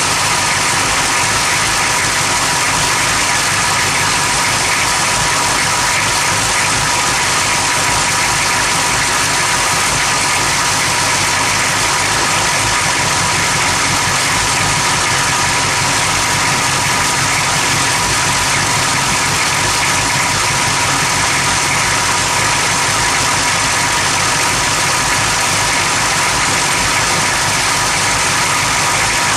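Engine idling roughly: a steady, fast pulsing that runs unchanged throughout, with a faint steady whine above it.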